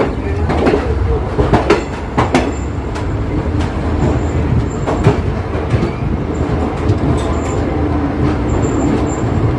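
Passenger train coaches rolling into a station: a steady rumble with irregular clicks of the wheels over rail joints and points, and a few brief high wheel squeals.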